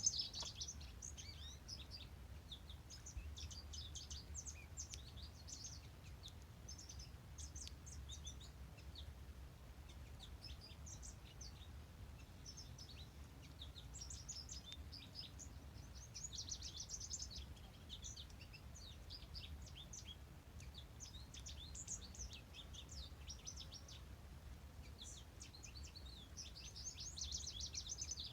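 Several songbirds singing and chirping at once in a dense, continuous chorus of quick high notes, over a faint steady low rumble.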